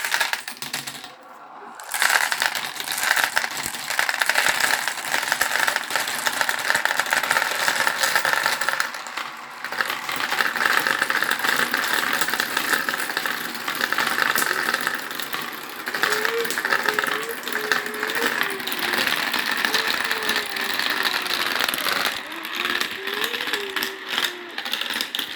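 Many marbles rolling and clattering through a marble run: a dense, continuous rattle of clicks that builds to full strength about two seconds in.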